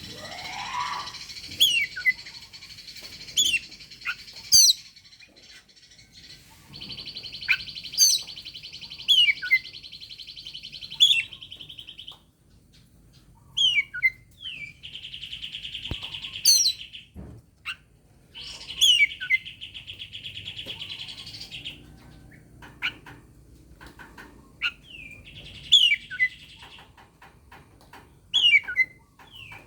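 Oriental magpie-robin (kacer) giving its aggressive challenge call: loud, sharp, falling whistles repeated every second or two, alternating with long harsh buzzing rasps lasting a few seconds each.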